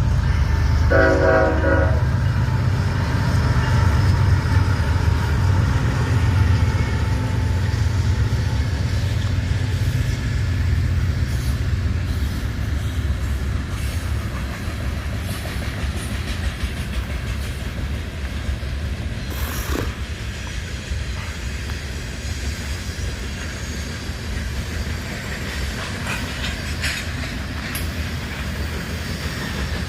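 Freight train passing, with a low, steady rumble of wheels and cars on the rails that slowly fades, and a short blast of a locomotive horn about a second in. A few scattered clicks come from the wheels over rail joints.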